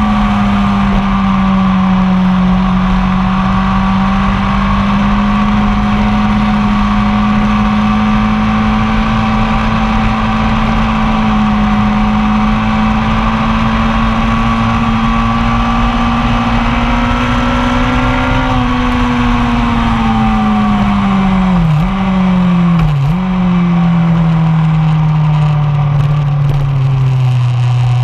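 1999 Yamaha R1's inline-four engine at a steady high-rpm drone for most of the run. Near the end the engine note falls as the bike slows, broken by two brief drops in pitch a second apart that sound like gear changes, and it starts to climb again at the very end.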